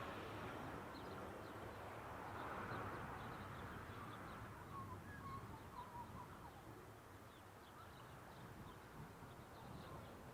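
Quiet open-country ambience: a faint low rumble that slowly fades, with short bird chirps scattered through the middle and again near the end.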